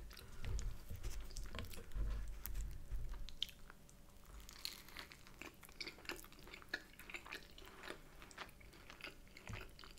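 Close-miked biting into and chewing a loaded sesame brioche bagel sandwich: soft moist mouth clicks and smacks throughout. There are a few dull low thumps in the first three seconds.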